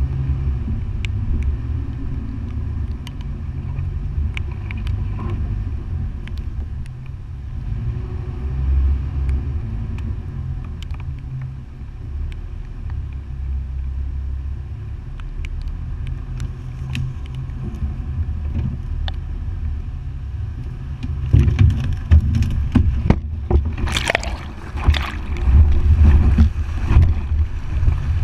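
Toyota FJ Cruiser's 4.0-litre V6 running at low speed with a steady low rumble and scattered small ticks. From about twenty seconds in, water splashes and surges noisily against the vehicle as it wades into the river.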